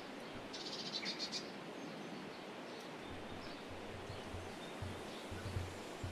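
A small songbird gives a short, high, rapidly pulsed chattering call about half a second in, over a steady outdoor hiss. Low dull thumps come and go in the second half.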